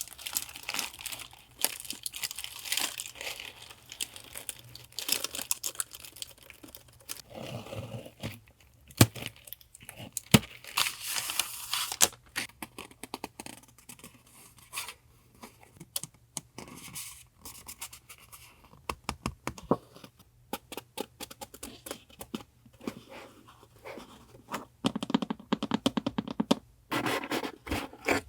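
Paper being handled for journaling collage: rustling, crinkling and tearing of paper, broken by many sharp clicks and taps in irregular runs.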